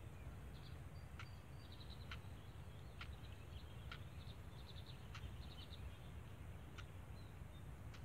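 Faint outdoor bird chirping: short runs of quick high chirps and a sharp tick repeating about once a second, over a low steady rumble.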